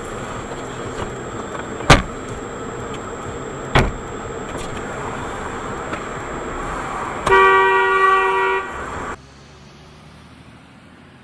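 Car running along the road with a steady engine and road noise, and two sharp knocks about two seconds apart. Later a car horn honks in a quick series of short blasts for over a second. The sound then drops suddenly to a quieter engine hum.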